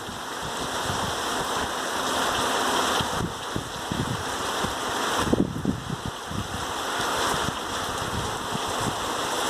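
Rain falling: a steady hiss that swells and eases every few seconds, with low buffeting on the microphone.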